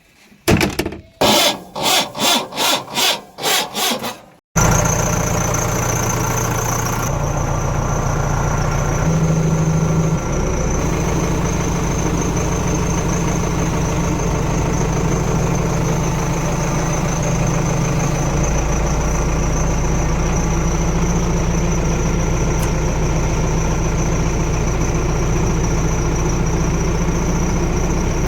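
About four seconds of rhythmic pulses, roughly three a second, then a sudden cut to a diesel engine running steadily, with a thin high whine above it.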